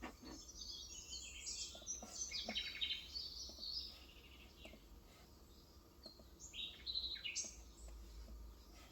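Small birds chirping and twittering in quick runs of high notes, busiest in the first half and again near the end.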